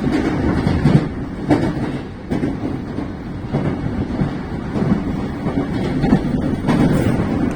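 Keiyo Line rapid train running at speed, heard from inside the car: a steady rumble of wheels on rail, with a few irregular sharp clacks.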